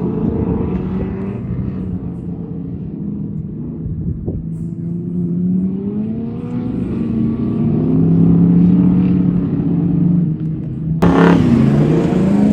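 Dirt circuit race car engines revving and lifting off as they lap the track, the pitch dropping, then climbing and falling again. About eleven seconds in the sound jumps suddenly louder.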